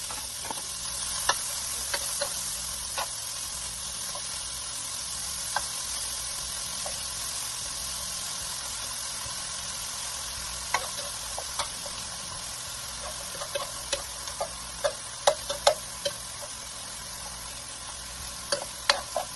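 Garlic and onions sizzling in hot oil in a frying pan, a steady hiss, while a metal utensil stirs them, clicking and scraping against the pan; the clicks come more often in the second half.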